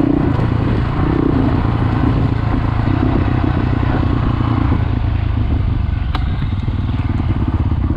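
Honda CRF450 dual-sport motorcycle's single-cylinder four-stroke engine running steadily at low revs, with one sharp click about six seconds in.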